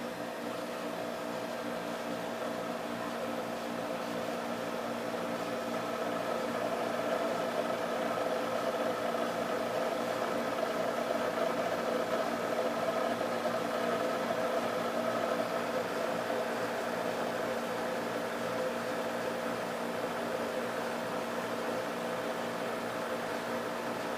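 Springer 12,000 BTU air conditioner running just after being switched on: a steady hum of several held tones over a rush of air. It grows a little louder over the first several seconds, then holds steady. This is the start-up noise the owner is recording.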